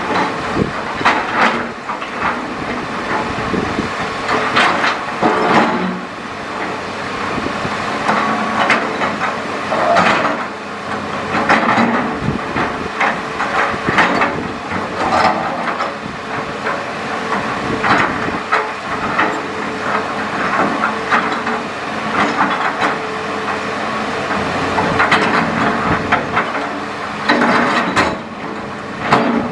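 Hitachi Zaxis hydraulic excavator at work: the diesel engine runs steadily while the bucket knocks and scrapes irregularly against stones and gravel.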